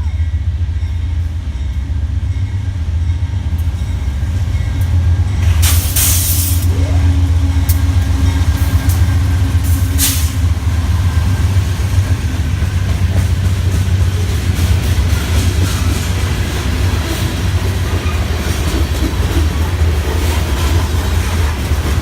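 Metra commuter train on the BNSF line running by, a steady low diesel-locomotive rumble with wheels on the rails. There are two brief hisses, about a quarter and about halfway through.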